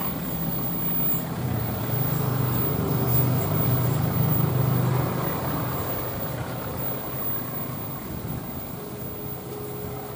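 Train passing on the line, a low rumbling hum with running noise that swells to its loudest about four seconds in, then slowly fades away.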